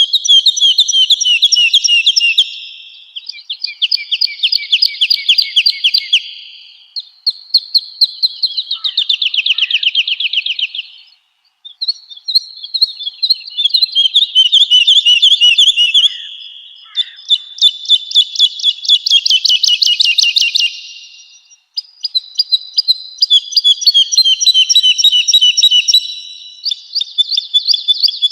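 Woodlark singing: a continuous run of phrases, each a fast series of repeated liquid notes lasting a few seconds, many of them fading away at the end before the next begins.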